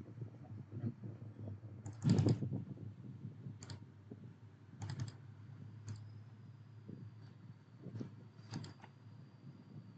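Computer keyboard being typed on in short, irregular clusters of key clicks, the loudest burst about two seconds in, over a low steady hum.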